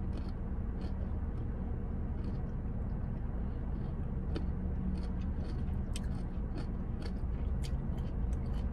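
A person chewing a mouthful of broccoli, with scattered soft mouth clicks, over a steady low hum inside a car.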